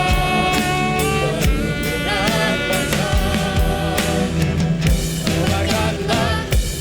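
Choir singing with band accompaniment: sustained voices over drums and guitar, with a regular drum beat.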